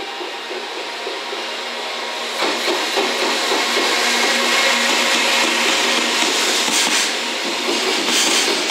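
JR Freight EF210 electric locomotive hauling a container freight train past, growing louder until it draws level about two and a half seconds in. After that the wheels of the container wagons roll by on the rails with a clickety-clack at the rail joints.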